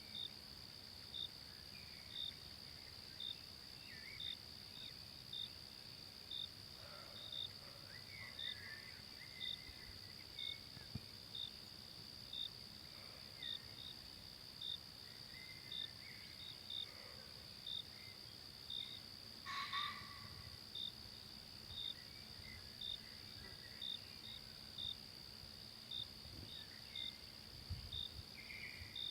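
Forest insects: crickets chirping evenly, about two chirps a second, over a steady high insect trill. Faint bird calls come and go, and there is one short sharp sound about two-thirds of the way through.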